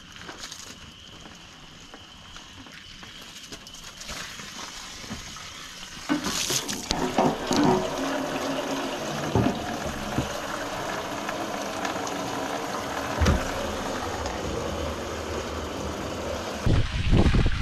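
Water running and splashing as a rusty metal gas tank is rinsed out. It gets louder about six seconds in, with a few knocks.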